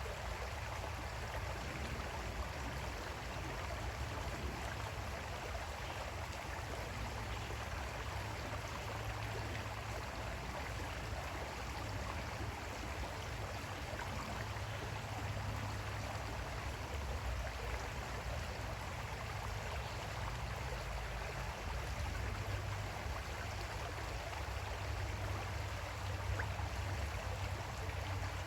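Creek water flowing steadily, an even rushing sound with a steady low rumble beneath it.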